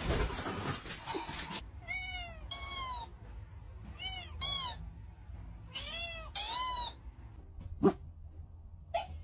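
A cat meowing in three pairs of short calls, each pair two meows in quick succession, each one rising and falling in pitch. They follow a loud noisy stretch in the first second and a half. Two sharp clicks come near the end.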